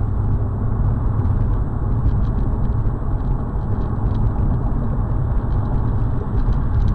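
Steady low rumble of a moving car, engine and road noise.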